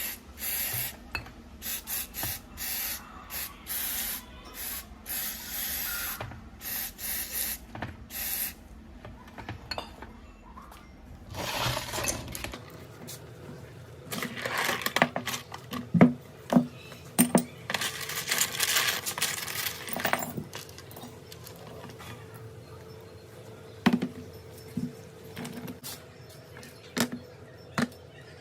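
Work on the parts of an old Bosch GBH 2-22E rotary hammer: a run of short hissing, scrubbing bursts, then longer hissing passes, with sharp clicks and knocks of hard parts being handled through the second half.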